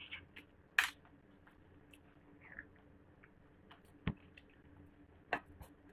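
Faint chewing and mouth noises of people eating lemon slices, with scattered small clicks. A short sharp noise about a second in is the loudest sound, and two light knocks come later.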